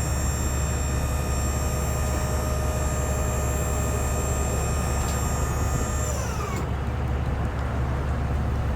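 Kubota skid steer engine running steadily under load. About six seconds in, the engine's pitch slides down as it drops off.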